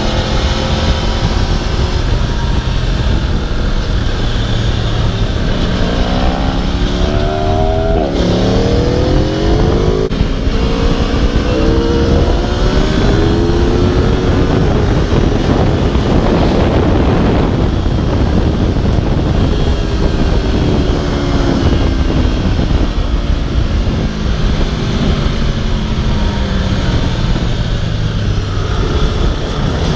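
Aprilia RSV4's V4 engine at speed on a race track, its pitch climbing through the revs and dropping sharply at upshifts about eight and ten seconds in, then falling slowly over a long stretch of deceleration before climbing again near the end. A constant rushing noise runs underneath.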